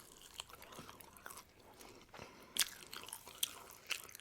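A person chewing food close to the microphone: a scattering of short, sharp mouth clicks and crunches, the loudest about two and a half seconds in.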